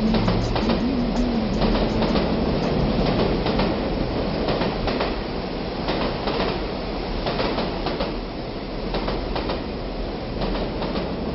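Recording of a train running on rails, a steady rumble with irregular clicks of the wheels, slowly fading out.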